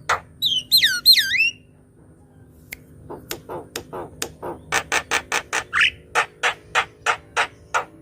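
Javan myna singing: harsh rasping notes and a few whistled, swooping glides, then after a short pause a long run of clipped, harsh chattering notes, about four a second, with one rising whistle in the middle.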